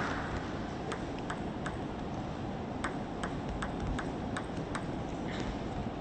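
Table tennis ball clicking sharply on rackets and table: three clicks, a short pause, then six evenly paced clicks about two and a half a second, over a steady low arena hiss.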